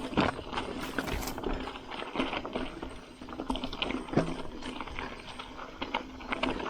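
Single-speed Priority Sauce gravel bike rolling over rough double track: irregular knocks, clicks and rattles as the tyres hit stones and the bike shakes.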